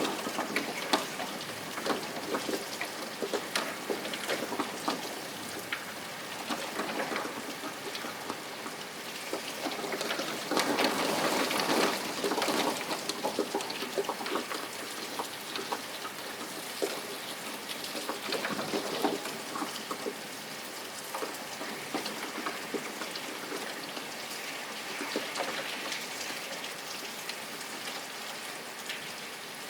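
Steady rain, a dense hiss of many small drop ticks, growing heavier for a few seconds about ten seconds in.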